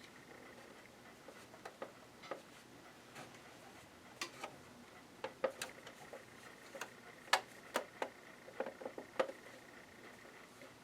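Irregular light clicks and taps from the plastic cover and parts of a Janome ME4014 sewing machine being handled while it is taken apart, coming more often in the second half, over a faint steady high tone.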